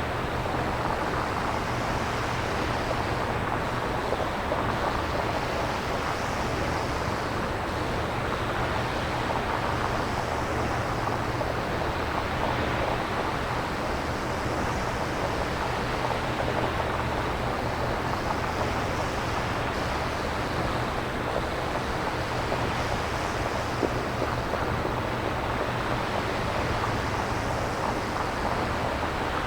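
Synthesizer-generated nature ambience: a steady rushing noise like surf or wind, swelling and easing every few seconds over a low hum.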